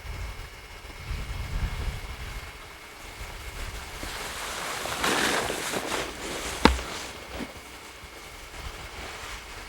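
Wind rumbling and buffeting on a camcorder microphone. About five seconds in, a louder rushing hiss swells and fades, and near seven seconds there is a single sharp click.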